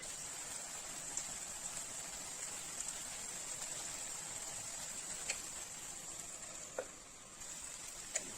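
Food sizzling in hot oil in a pan: a steady hiss with a few sharp pops.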